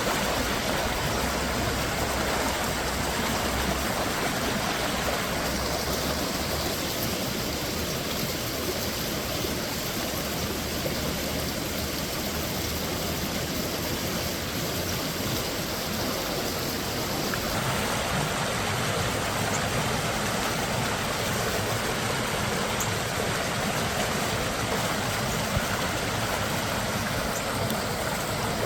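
Minnehaha Creek's water rushing steadily over rocks and falls, a continuous even noise; its tone shifts slightly about two-thirds of the way in.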